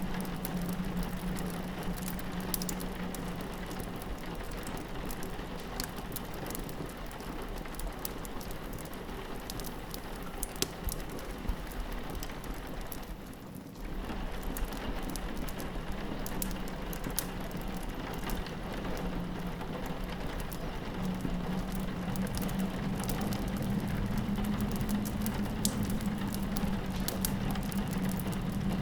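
Steady rain pattering on a window, mixed with the sharp pops and crackles of a wood fire. The sound dips for a moment about halfway through.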